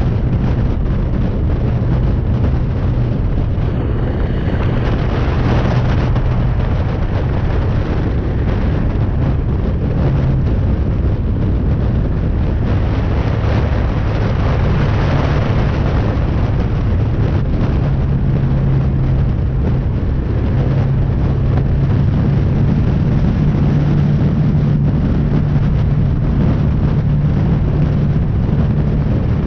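BMW G310R's single-cylinder engine running on the move, with wind noise on the microphone; the engine note shifts pitch a few times as the revs change.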